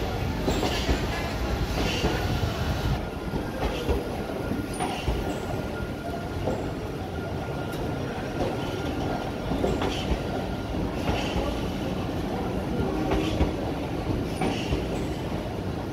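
Indian Railways express coaches rolling slowly into a station, a steady rumble with irregular knocks from the wheels crossing rail joints and a faint thin wheel squeal.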